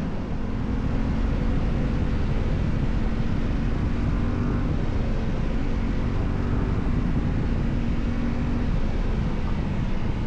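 Yamaha Ténéré 700's parallel-twin engine running at a fairly steady pitch while riding, under a low rumble of wind and road noise.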